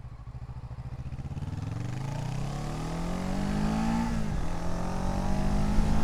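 Motorcycle engine accelerating. Its pitch climbs steadily, drops sharply at a gear change about four seconds in, then climbs again, with wind noise underneath.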